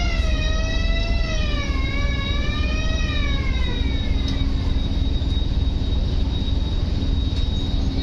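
A boat's horn held on one pitch, then wavering and sliding lower as it fades out over the first four seconds, over the steady low rumble of an engine.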